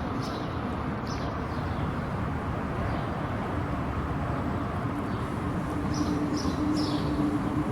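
Small birds chirping in short, high, falling notes, a few at a time, over a steady background rumble; a low steady hum comes in partway through.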